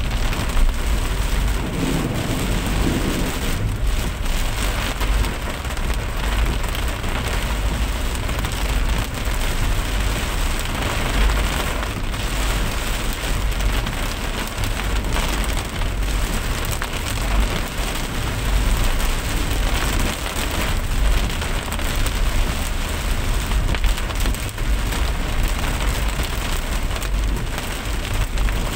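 Steady rain, an even hiss over a constant low rumble.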